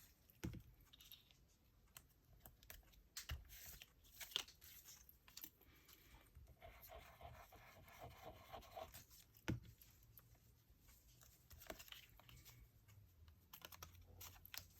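Faint paper handling: soft rustling and scraping with a few sharp light taps.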